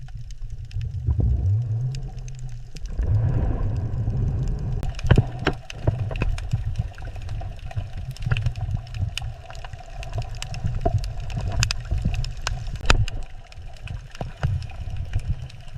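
Underwater ambience: a steady low rumble of moving water with many sharp clicks and crackles scattered through it, and a short rising low tone about a second in.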